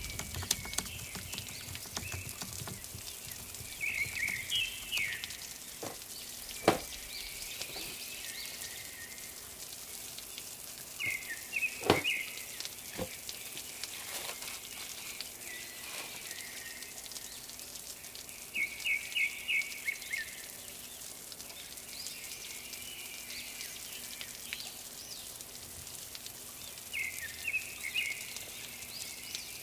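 Small birds chirping in the background, short bursts of quick high notes every few seconds over steady background noise. There are a few sharp knocks as the cardboard shoebox is handled.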